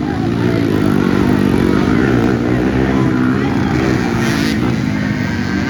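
Racing ATV engines, several at once, their pitch rising and falling with the throttle.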